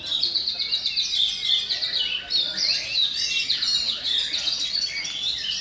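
Oriental magpie-robin (kacer) singing a fast, unbroken run of high chirping and trilling notes.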